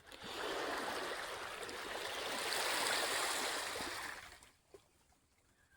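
A small wave washing up the shore, swelling and then fading away about four seconds in.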